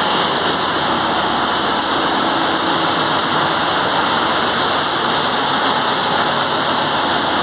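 Loud, steady din of a bulk carrier's engine-room machinery at the purifier room, where the oil purifiers are running, with a few steady high whines over a constant roar.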